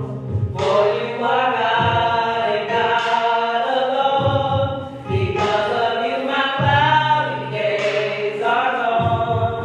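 Choir singing, in phrases a second or two long, over low bass notes.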